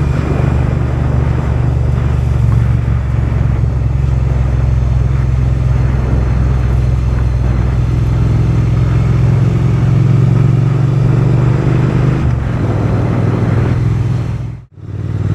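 Triumph Bonneville's parallel-twin engine running with a steady, deep exhaust note. It cuts out briefly near the end, then picks up again.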